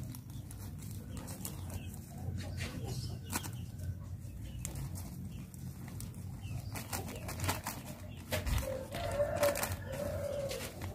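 Scattered rustles and clicks over a low hum, with a low-pitched bird call wavering for about two seconds near the end.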